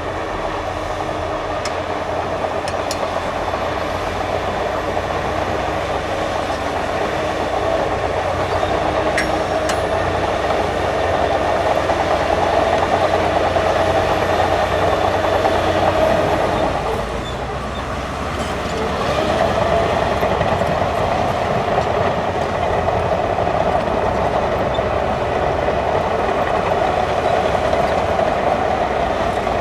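Bulldozer working: the diesel engine runs steadily under load with the rumble and clatter of its tracks. The sound drops briefly about seventeen seconds in, then picks up again.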